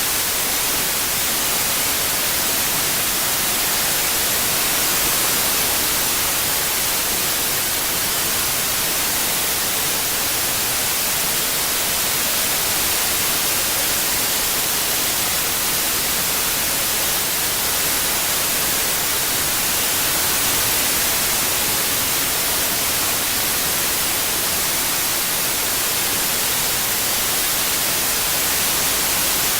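Steady synthetic white noise, an even hiss strongest in the treble, swelling and easing slightly every several seconds.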